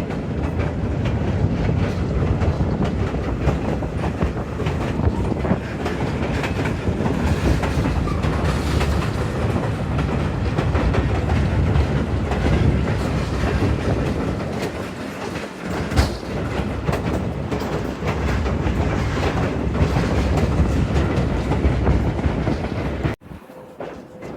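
A train running on track, a steady loud rumble with occasional sharp clicks from the wheels. About a second before the end it cuts off suddenly to a much quieter background.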